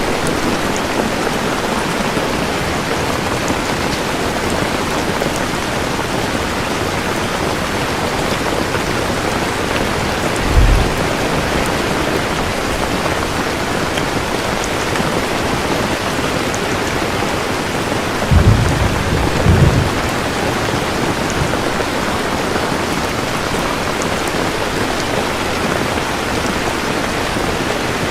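Steady heavy rainfall, with low thunder rumbles: a short one about a third of the way in and two close together about two-thirds through.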